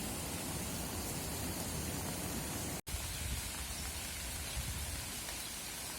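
Steady hiss of rain falling outdoors, with a split-second gap in the sound just under three seconds in.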